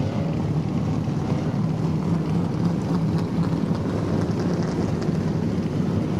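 A large field of Group A and Group C touring cars with their engines running together, making a steady, dense drone.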